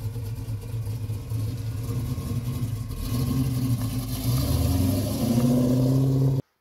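Butler Performance 505 cubic-inch Pontiac V8 running as the Trans Am drives off, growing louder over the last few seconds, then cutting off suddenly.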